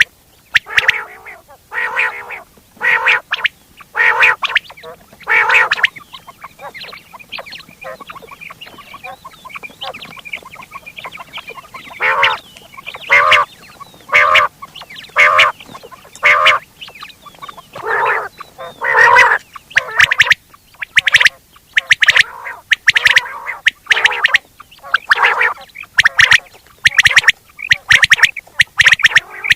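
Quail calling over and over: short, loud calls about a second apart. In a lull near the middle there is fainter rapid chattering before the calls start up again.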